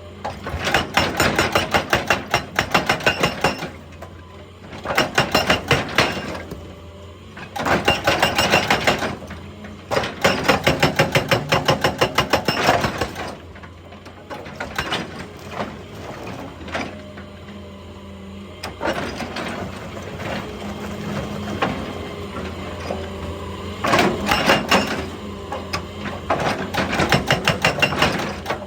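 Excavator-mounted hydraulic breaker hammering rock in bursts of rapid blows, several a second, over the steady hum of the excavator's engine. A longer lull of lower, uneven knocking comes in the middle, and then the hammering starts again near the end.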